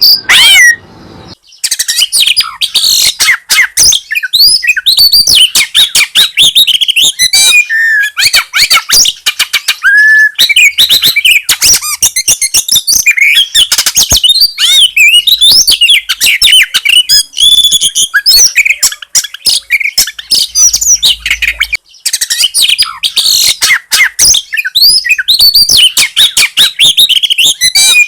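Songbirds singing a rapid, continuous stream of loud chirps, trills and whistles, broken only briefly about a second in.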